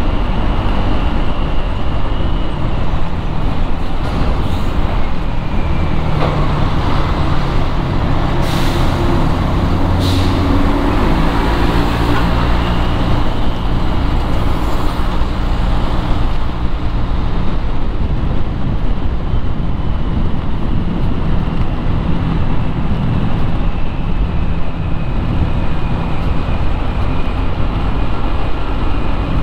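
Road traffic noise: vehicle engines running and tyres on the road, a steady rumble with shifting engine notes. About a third of the way in come two short, sharp hisses.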